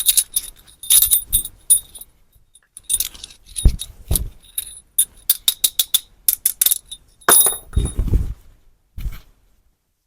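Metal pieces clinking and knocking against each other in sharp, ringing clicks, with a quick run of clinks about six seconds in and a few duller thumps between.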